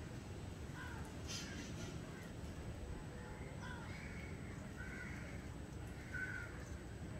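Birds calling in short repeated calls, one every second or so, over a steady low background rumble, with a brief burst of noise about a second in.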